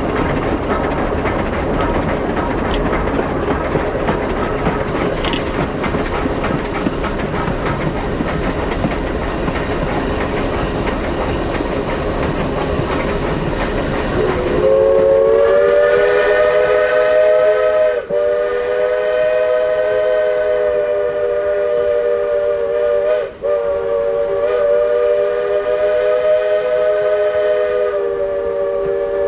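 Steam train running over the rails, wheels and cars rumbling steadily; about halfway in, the 2-4-4-2 steam locomotive's chime whistle sounds a long multi-note chord for about fourteen seconds, with two brief breaks.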